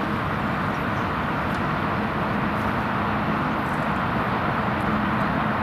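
Steady running noise of a moving vehicle, a dense even rush with a low hum underneath, starting and stopping abruptly at cuts.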